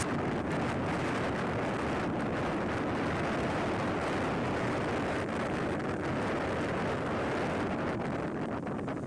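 Steady rushing noise of the sea, with wind on the microphone.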